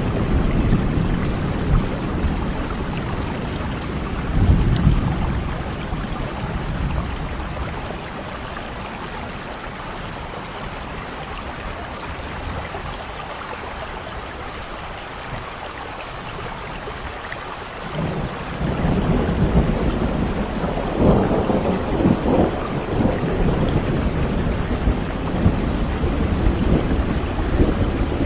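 Thunderstorm: steady rain with rolling thunder. The rumbling is strong in the first few seconds and fades to rain alone through the middle, then a new long roll of thunder builds about two-thirds of the way through and keeps rumbling.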